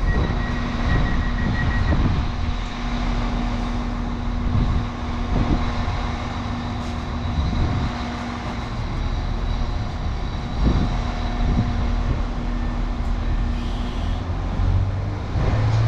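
Train engine running with a steady hum, mixed with gusty wind rumbling on the microphone.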